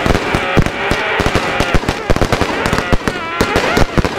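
Fireworks and firecrackers going off in dense, irregular bangs and crackles, several per second.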